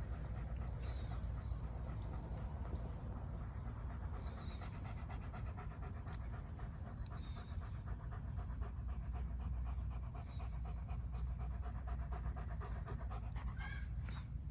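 A dog panting fast and steadily, several breaths a second.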